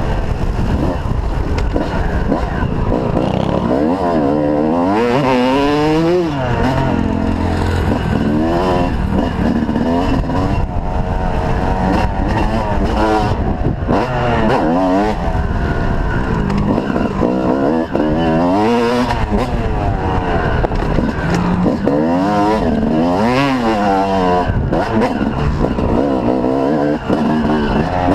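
Motocross dirt bikes running on the track, their engines rising in pitch through the gears and dropping back over and over, with several bikes heard at once.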